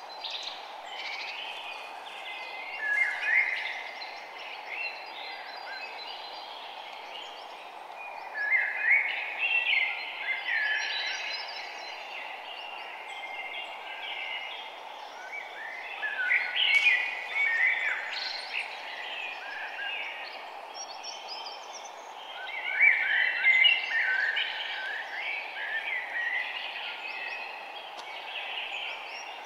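Birds chirping and singing in clusters of quick calls every several seconds over a steady background hiss.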